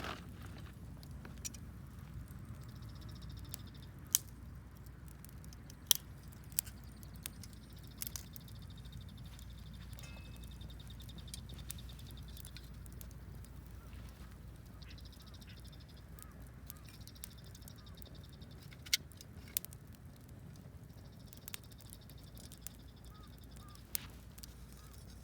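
Campfire burning with scattered sharp crackles and pops from the wood over a low, steady rumble. A high, rapid trill from a creature comes and goes several times.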